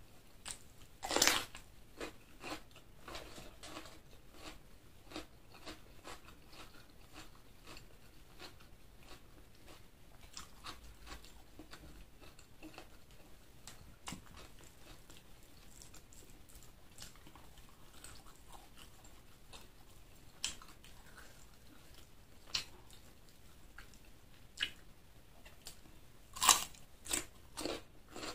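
Mouth sounds of a person eating chicken liver and gizzard with rice, close to the microphone: steady chewing with short crunchy bites. There is a loud bite about a second in and a cluster of loud crunches near the end.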